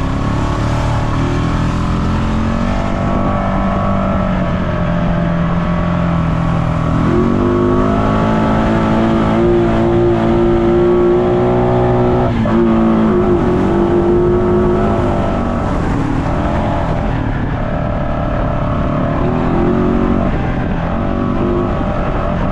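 Off-road vehicle engine running under load. About seven seconds in it revs up and holds higher for several seconds, then eases off, and it rises briefly again near the end.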